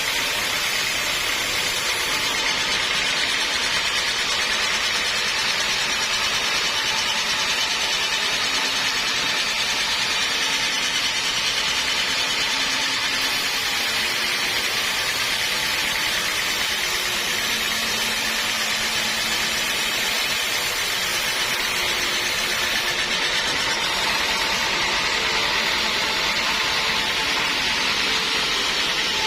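Sawmill machinery running steadily, a continuous loud noise without breaks.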